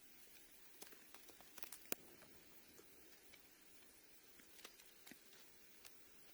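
Faint, irregular light clicks and taps over a quiet hiss, with the sharpest click about two seconds in.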